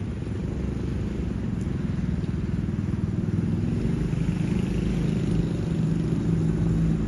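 A vehicle engine running steadily with a low hum, slowly getting louder.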